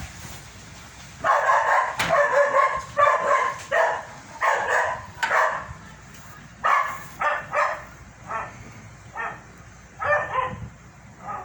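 A dog barking repeatedly, in uneven runs of short barks.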